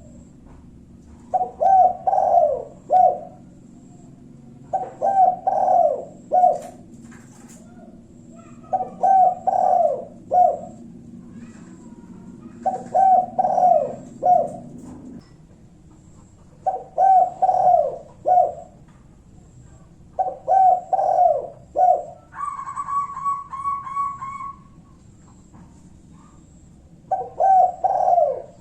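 Spotted dove (tekukur) singing its cooing song, used as a lure call: a short phrase of three or four coos, repeated about every four seconds, seven times. Just after three-quarters of the way through, a higher, steady warbling note sounds for about two seconds. A faint low hum stops about halfway.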